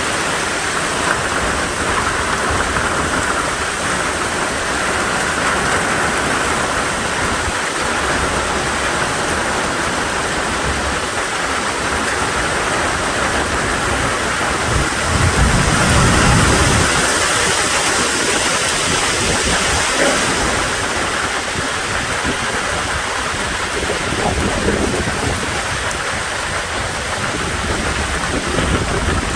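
Heavy rain pouring down in a steady, dense hiss, with a low rumble for a couple of seconds about halfway through.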